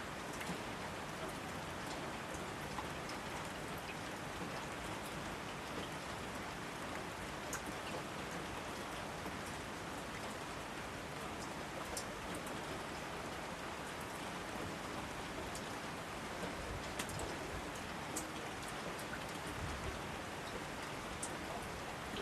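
Steady rain falling, a continuous hiss with scattered close drops ticking and spattering on surfaces.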